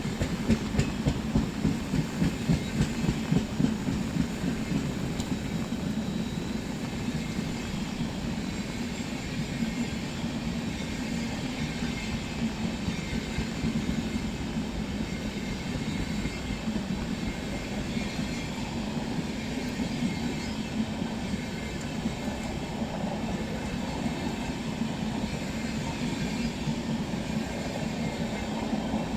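Train running by on the rails, a steady rumble of wheels and carriages with a quick rhythmic clatter over the first few seconds.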